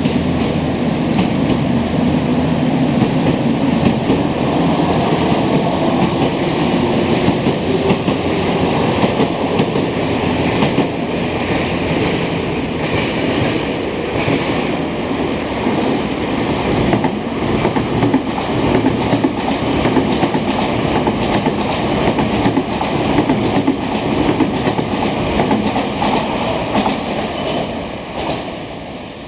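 Electric commuter train noise at a station platform: steady running noise with repeated short clacks of wheels on the rails, easing off near the end as a Semboku Rapid Railway train pulls in to stop.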